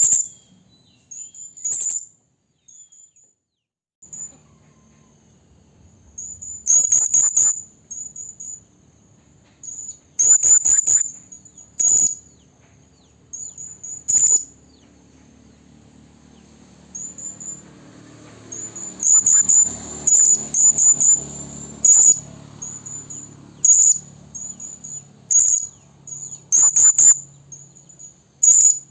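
Serindit (hanging parrot) giving shrill, very high-pitched chirps, singly and in quick clusters of two to four, repeated every second or two. It is a lure (pikat) call, a female serindit calling for a male. A faint low hum runs underneath.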